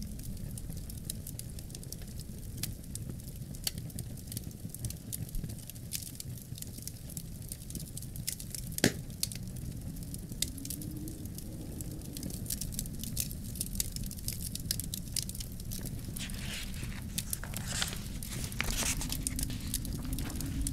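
Wood fire crackling in a fireplace, with scattered snaps, one loud pop about nine seconds in and a busy run of crackles near the end, over a steady low rumble of wind that rises and falls in a faint howl.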